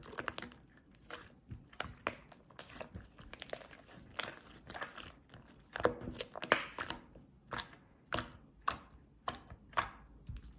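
Chewy slime being squished and pressed by hand, making irregular sticky clicks and crackling pops, several a second.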